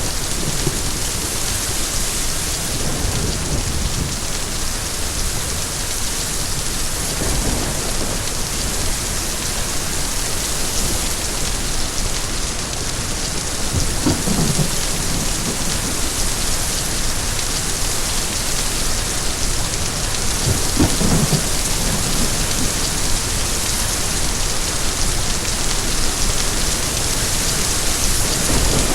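Steady heavy rain falling and pattering on surfaces. Brief low rumbles swell up about halfway through and again around two-thirds of the way in.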